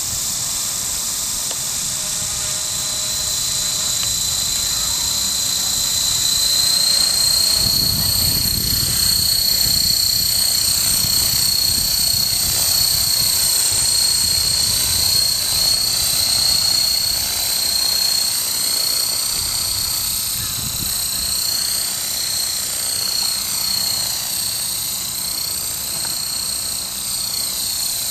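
Small electric RC helicopter (a modified Esky Honey Bee King 2 with a 3900kv brushless motor) in flight: a steady high-pitched motor and gear whine over the rotor's whir, its pitch wavering slightly as the throttle changes. A low rumble swells about a quarter of the way in and again about two-thirds of the way in.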